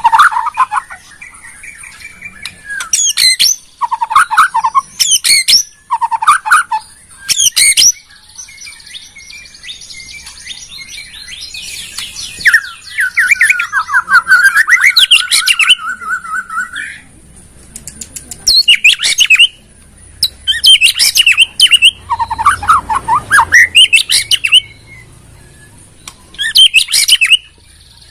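White-rumped shama (murai batu) singing: short loud phrases of whistled and rapidly chattering notes with brief pauses between them, and a longer run of fast chatter near the middle.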